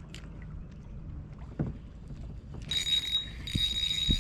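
Spinning reel being cranked to retrieve an inline spinner: a steady high whir that starts a little under three seconds in and breaks off briefly once, over a couple of faint knocks.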